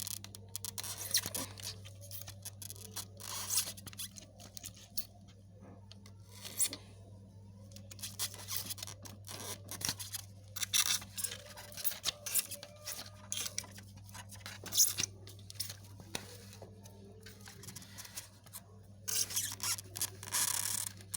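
Insect pins being pushed into a spreading board, giving irregular squeaks, clicks and scrapes, over a steady low hum.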